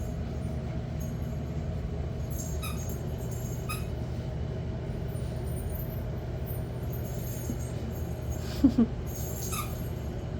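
Steady low hum, with a few faint short tings and a single brief puppy yelp about three-quarters of the way through.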